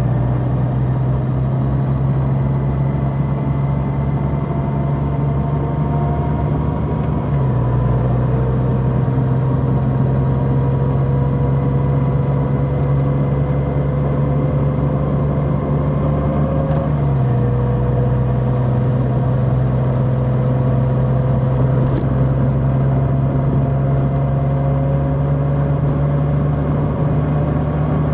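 Large motorcycle's engine running under way, its pitch slowly climbing and then dropping abruptly twice, about 7 and 17 seconds in, as at upshifts.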